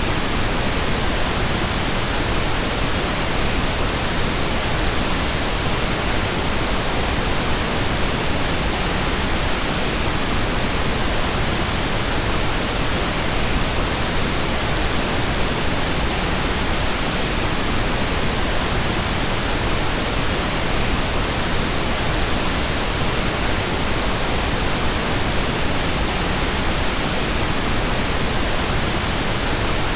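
Steady, unchanging pink noise: an even hiss spread across the whole audible range.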